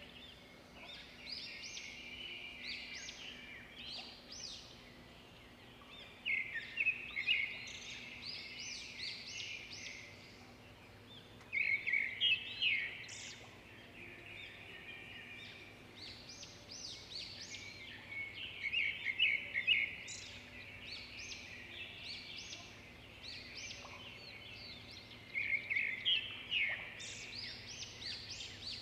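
Small birds chirping and twittering in quick high trills, coming in bursts about every six seconds, over a faint steady hum.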